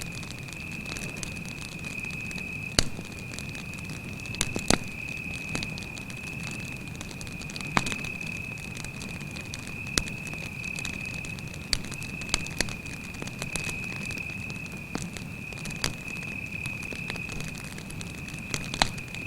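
Wood campfire crackling, with sharp irregular pops every second or two over a low rumble of flame, and a cricket trilling in one steady high note throughout.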